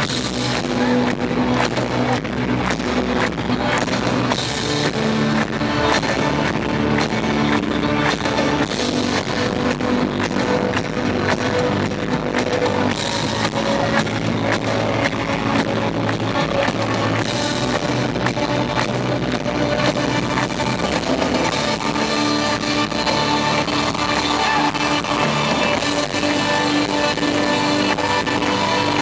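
Live band music recorded from the audience: an instrumental passage with plucked guitar-family strings and a steady drum beat, with no singing. The bass comes through weakly.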